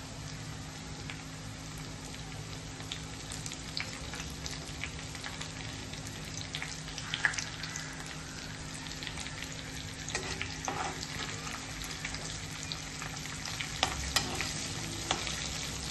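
Crushed garlic and curry leaves sizzling and crackling in hot oil in a kadhai, the tempering (tadka) stage of the dish. Near the end a spatula stirs and scrapes the pan.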